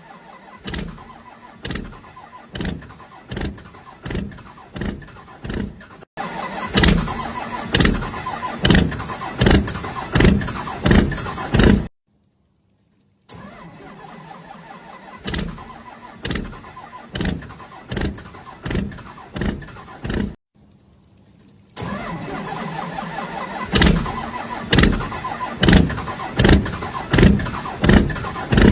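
Motorbike engine running with a steady low hum and loud, regular surges about one and a half times a second. It comes in several short clips that cut in and out abruptly.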